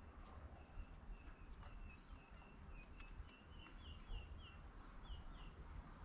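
A bird calling in the background: a run of about fifteen short, high notes, about three a second, edging slightly up in pitch towards the end. Under it are wind rumble on the microphone and scattered faint clicks.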